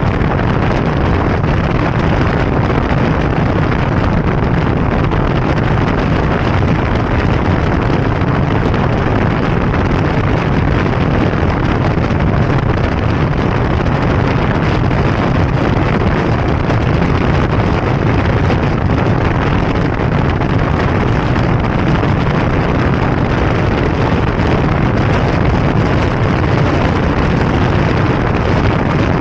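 Steady wind rush on the microphone of a moving motorbike, with road and engine noise blended into a low, even roar that does not change.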